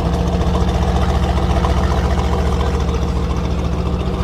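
Mercedes car with a loud exhaust idling steadily, a low, even engine note that holds the same pitch throughout.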